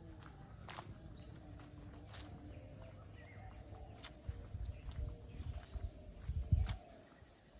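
Steady high-pitched chorus of crickets and insects in the early morning, with a few sharp chirps or clicks scattered through it. From about halfway in, low rumbling bumps on the microphone come and go; they are loudest shortly before the end.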